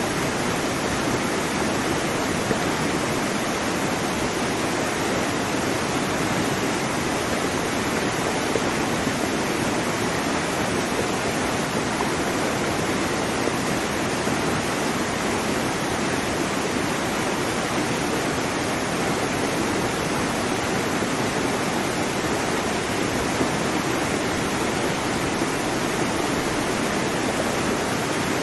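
Waterfall: water falling and rushing in a steady, even roar with no birds or other sounds standing out.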